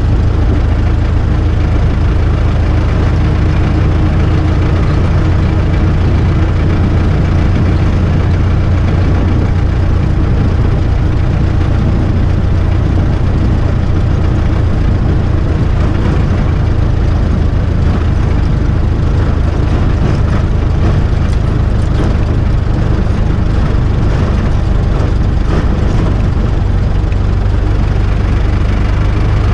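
Vintage car's engine running steadily while driving along, a constant low drone that holds level throughout.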